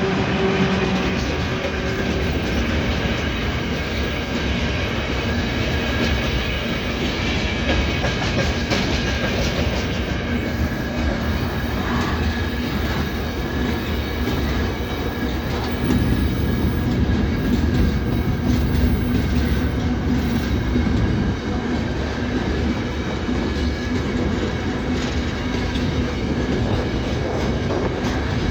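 A train rolling past with continuous wheel-on-rail noise and faint clatter over the rail joints. A steady hum runs under it, and a lower tone drops out about two seconds in.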